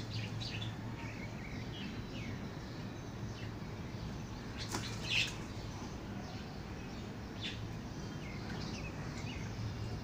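Small garden birds chirping now and then, short high calls scattered through, with a louder chirp about five seconds in, over a steady low background hum.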